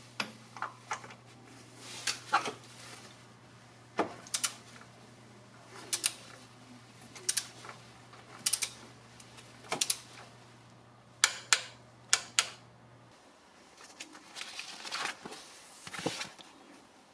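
Hand tools and metal parts clicking and knocking during an engine oil change: a series of sharp separate clicks, some in quick pairs, spaced irregularly about a second apart. A low steady hum runs under them and stops near the end.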